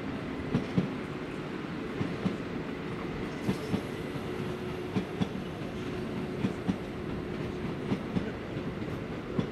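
Regional electric multiple unit train rolling slowly past with a steady rumble. Its wheels click over a rail joint in pairs, the two clicks a quarter second apart, with a new pair about every second and a half.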